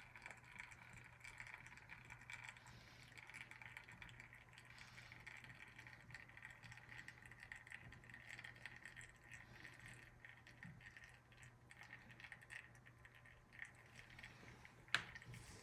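Near silence: a faint crackling trickle of espresso running from a Flair 2.0 Pro manual lever press into the cup while pressure is held, over a low steady hum. One sharp click near the end.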